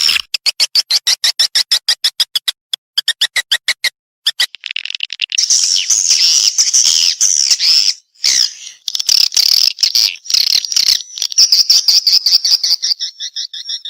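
Swiftlet calls: a fast train of dry clicks, several a second, for about four seconds, then continuous high, dense twittering chirps.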